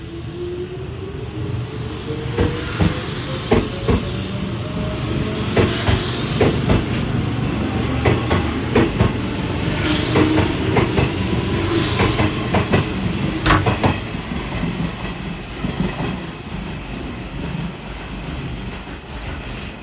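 Hanshin Railway electric train accelerating: a motor whine rises steadily in pitch, and wheels click over rail joints, the clicks coming faster as speed builds.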